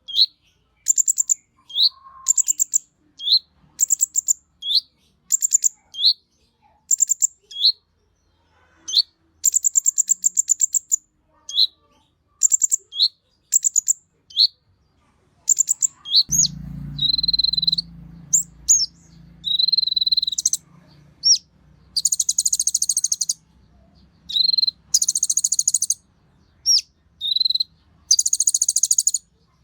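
Kolibri ninja (konin) sunbird singing: rapid high buzzy trills, each ending in a short slurred note, repeated about once a second, with longer buzzy phrases in the second half. A low rumble sits underneath from about halfway.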